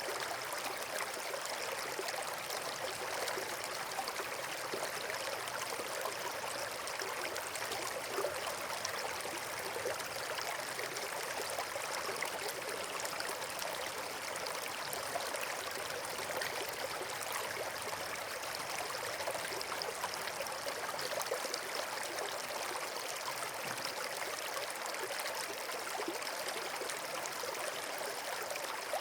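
Steady, unchanging rush of running water, as from a stream or small waterfall.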